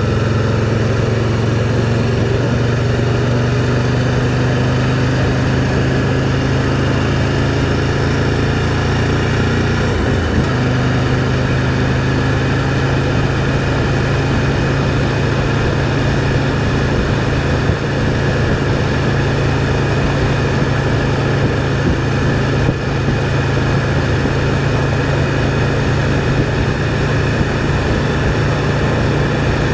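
Motorcycle engine running under way, a steady drone. Its pitch creeps up over the first ten seconds, breaks briefly about ten seconds in, then holds level.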